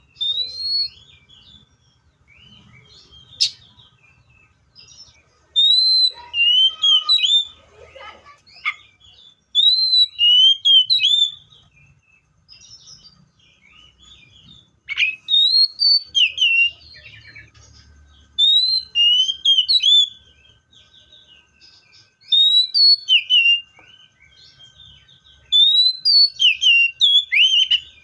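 Magpie-robin singing: short phrases of clear whistled notes and quick chirps, repeated every few seconds with quiet pauses between.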